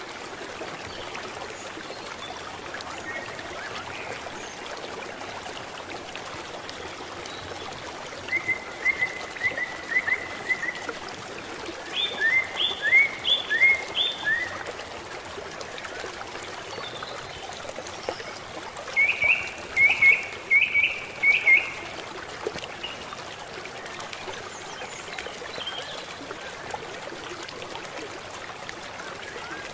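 Steady rain falling and water running off, a constant hiss. Three times, an animal calls in a quick series of high chirps, four or five notes each.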